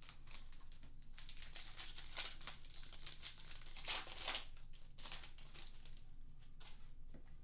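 Trading-card pack wrapper being torn open and crinkled, a run of rustling and ripping bursts, loudest about four seconds in.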